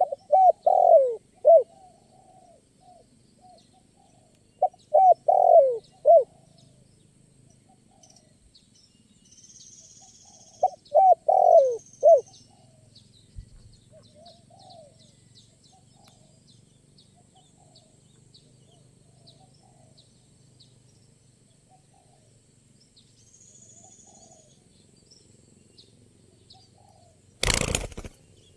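Spotted doves cooing: three loud phrases of several quick descending coos, spaced about five seconds apart, with fainter coos from other doves answering in between. Faint high chirps run underneath, and a brief loud burst of noise comes near the end.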